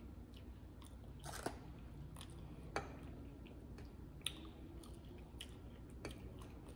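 A person chewing a mouthful of baked chicken and mashed potatoes, with quiet mouth sounds. A metal fork clicks sharply against the plate and the aluminium foil four or five times, over a faint low hum.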